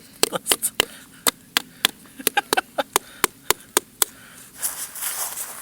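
A rapid series of sharp, hard knocks, about three or four a second, as a frozen mushroom, frozen hard as wood, is hacked at with a blade. The knocking stops after about four seconds and a rustling noise follows.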